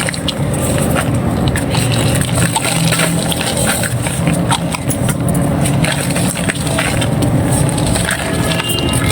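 Dry red-sand clay crumbling, a steady stream of small crisp crunches and crackles over a steady low hum.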